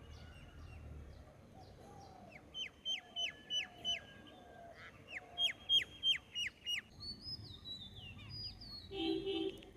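Birds calling: two runs of quick, high, down-slurred notes, about three a second, with fainter lower notes beneath. A short harsh call comes near the end.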